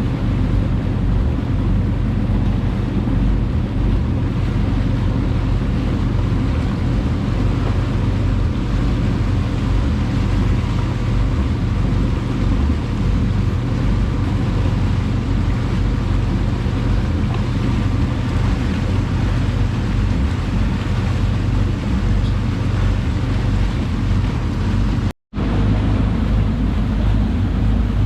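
Boat engine running steadily underway as a constant low drone, with water and wind noise over it. The sound cuts out completely for a split second near the end.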